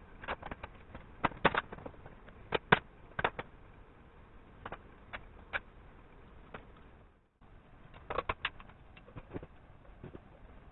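Scattered sharp clicks and knocks of metal parts and tools being handled while a motorcycle engine is assembled. The sound cuts out briefly about seven seconds in.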